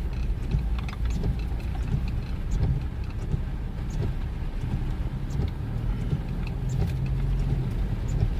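Car heard from inside the cabin while driving: a steady low rumble of engine and tyres, with a few faint clicks scattered through.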